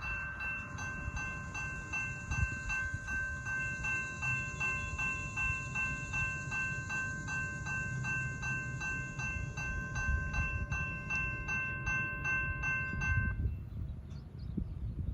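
Railroad grade-crossing bell ringing at about two strokes a second, then cutting off suddenly near the end, over the low rumble of an approaching freight train.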